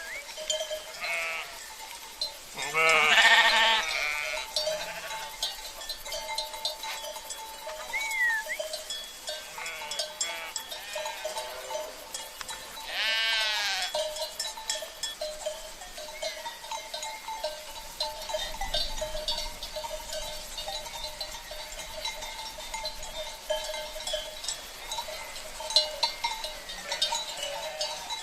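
Sheep bleating, two loud bleats about three seconds in and again around thirteen seconds, with fainter bleats scattered between. Sheep bells ring steadily underneath.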